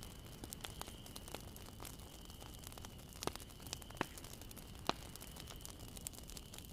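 Wood fire crackling over a low steady rumble of flames: a stream of small sharp pops, with a few louder snaps scattered through.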